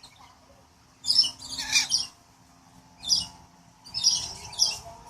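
Lorikeets in a nectar-feeding aviary giving several short, shrill, high-pitched calls, the first about a second in.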